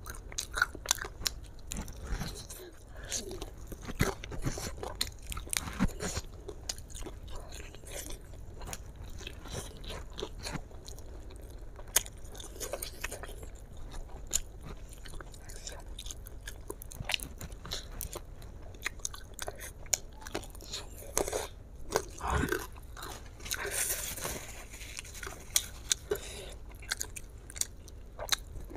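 Close-up sounds of a person biting and chewing crispy fried chicken coated in spicy sauce: many short crisp clicks of crunching and chewing, busiest about three-quarters of the way in.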